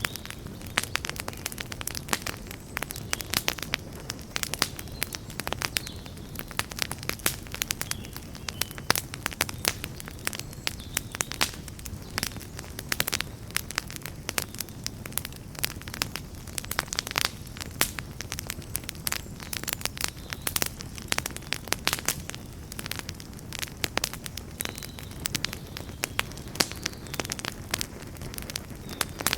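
Campfire burning with dense, irregular crackles and pops, several a second, over a steady low rumble of the flames.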